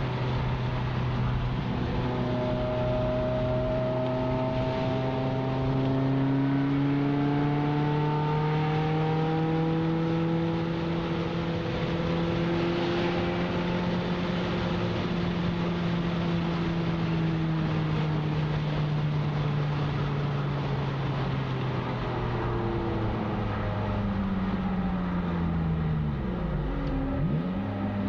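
Ferrari F355's V8 engine heard from inside the cabin under steady throttle, its note rising slowly and then easing off. Near the end the revs fall away and dip sharply with a gear change.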